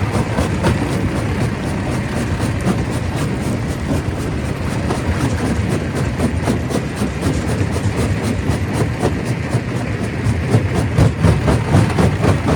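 Stone crusher running under load: a heavy low rumble with a dense, irregular clatter of rock cracking and knocking, growing more uneven near the end.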